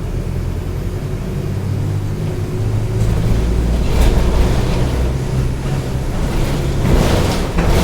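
Diesel engine of a Mercedes-Benz OF-1722M city bus running steadily, with its low drone shifting in pitch, and two brief louder rushing noises about four and seven seconds in.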